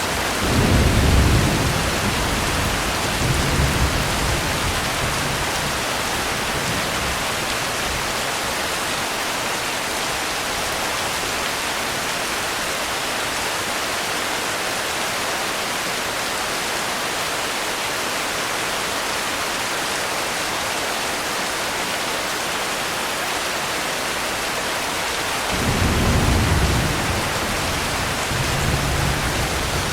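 Steady rain hissing, with low rolls of thunder rumbling about a second in and again near the end.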